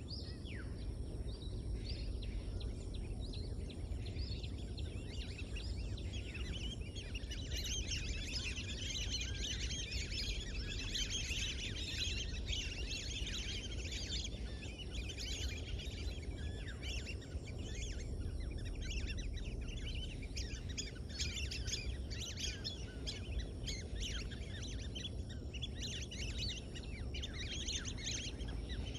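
Many small birds chirping and calling together in a dense chorus, busiest from about seven seconds in, over a steady low background rumble.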